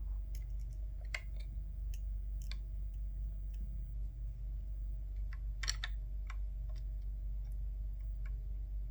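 Scattered small clicks and taps of plastic headset parts and tiny screws being handled during reassembly, with a cluster of louder clicks a little past halfway, over a steady low hum.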